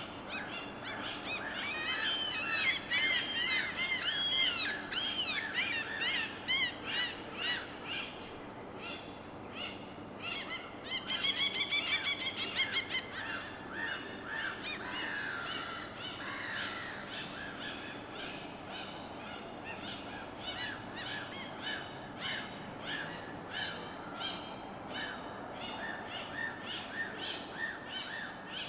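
Birds calling and chirping over a steady wash of water. There is a busy flurry of chirps early, a quick run of rapid notes about eleven seconds in, then steady repeated short calls.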